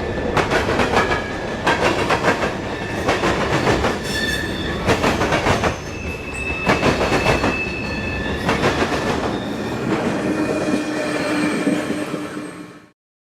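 Dubbed-in sound effect of a full-size train rolling past: a steady clickety-clack of wheels over rail joints, with high wheel squeal over it. It fades out near the end and cuts to silence.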